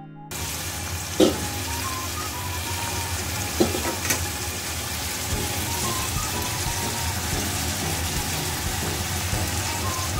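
Whole chicken sizzling steadily in its soy and oyster sauce in a stainless steel wok. There are a few sharp knocks against the pan, the loudest about a second in and others around three and a half and four seconds.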